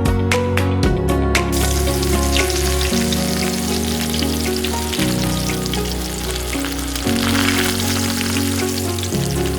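Hot oil sizzling and crackling as tiny garelu (lentil-batter fritters) deep-fry, the sizzle coming in about a second and a half in. Background music with steady low notes plays underneath.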